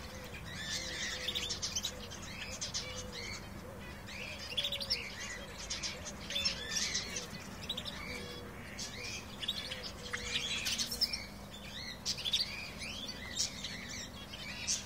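Canaries singing: a continuous run of chirps, trills and quick rising and falling notes.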